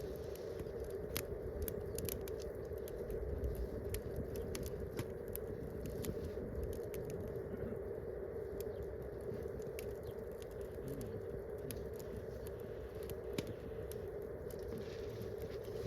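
Wood campfire crackling, with many sharp pops and snaps scattered irregularly over a steady background.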